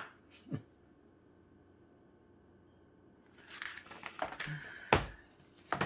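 Paper rustling as a picture-book page is handled and turned, starting about three and a half seconds in, with a couple of short knocks near the end.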